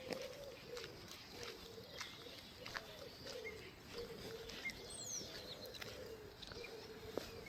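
A pigeon cooing over and over in low, soft phrases, with small birds chirping faintly and one thin falling whistle about five seconds in.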